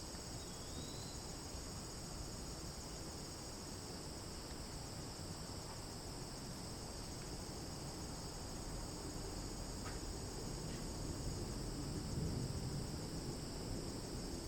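Rural outdoor ambience of crickets trilling steadily and high over a low background rumble, with a short chirp near the start and a slight swell in the rumble late on.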